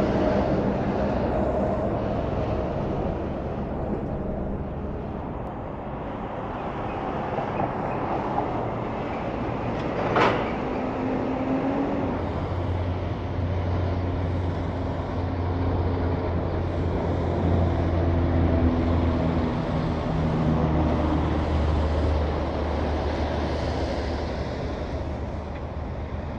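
Big trucks driving past on a highway: steady engine drone with low humming tones that change as vehicles come and go, and a brief sharp sound about ten seconds in.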